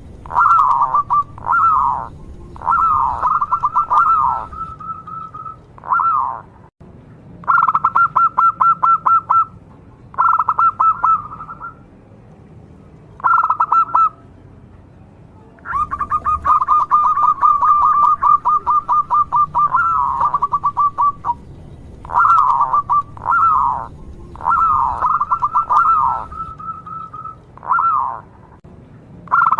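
Local zebra dove (perkutut) calling repeatedly. Each phrase is a run of fast, clipped cooing notes about a second or two long, with short pauses between them. There is one longer run near the middle.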